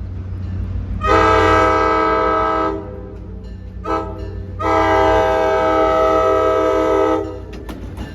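Locomotive air horn blowing a long blast, a brief toot, then another long blast, several notes sounding together, over the steady low rumble of the train: the pattern of a grade-crossing warning.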